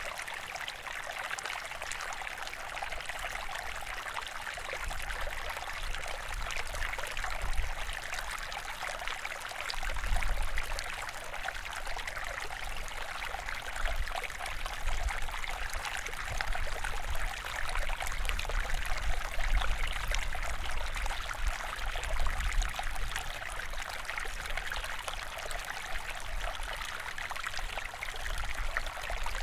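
Steady rush of running, trickling water, with a low rumble about ten seconds in and again later.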